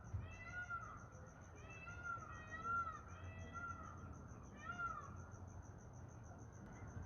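About six faint, meow-like calls, each a short cry that rises and falls in pitch, spaced about a second apart.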